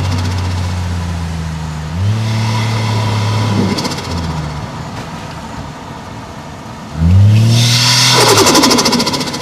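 Toyota 1JZ-GTE turbocharged 2.5-litre straight-six pulling a car: the engine note steps up about two seconds in, eases off, then rises sharply near seven seconds. It is followed by a rapid fluttering chatter of turbo compressor surge as the throttle is lifted.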